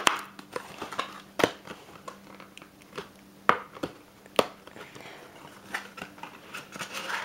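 Packaging of a sealed Pokémon booster box being worked open by hand: crinkling and crackling, with scattered sharp clicks and snaps, a few of them louder.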